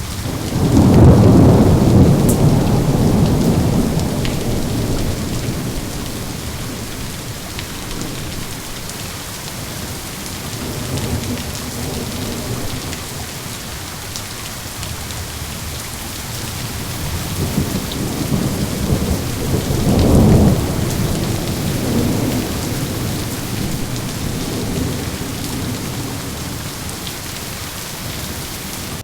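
Steady heavy rain with rolling thunder: a loud low rumble about a second in that fades away over several seconds, and another that builds and peaks about two-thirds of the way through.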